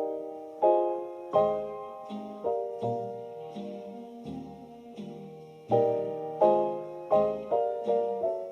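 Solo piano playing chords, each struck sharply and left to ring down, with a slower stretch in the middle.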